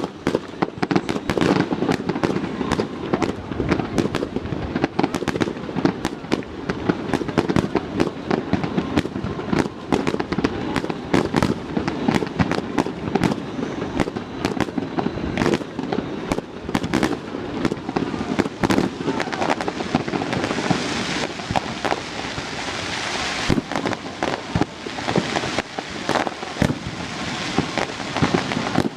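Fireworks display going off: a dense, rapid run of bangs and crackles. A stretch of brighter crackling comes about two-thirds of the way through.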